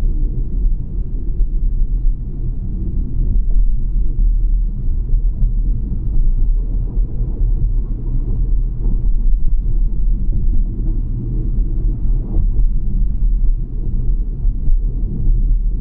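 A steady, low rumble with no clear events in it.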